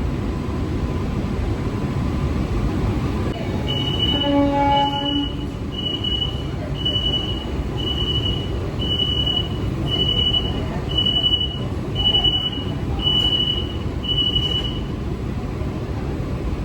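Steady rumble of an AC electric local train. About four seconds in there is a short low chime. From then until near the end, a high electronic beep repeats about once a second, around eleven times.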